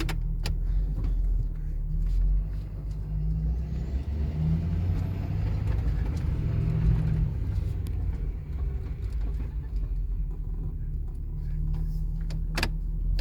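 Ford F-550 truck engine running with a steady low rumble, swelling a little for a few seconds in the middle. A sharp click sounds near the end.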